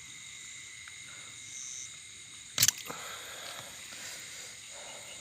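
Steady night chorus of insects, thin high-pitched trilling, with one sharp knock or splash about two and a half seconds in.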